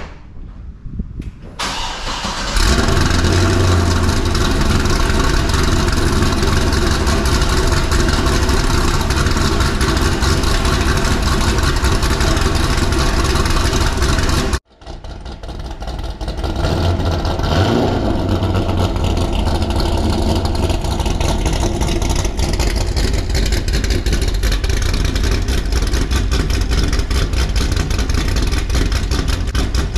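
Chevrolet Corvette Z06's rebuilt LS7 V8 cranked and started about two seconds in, then running at a steady, loud idle. The sound breaks off abruptly about halfway through and the engine is heard running again a moment later.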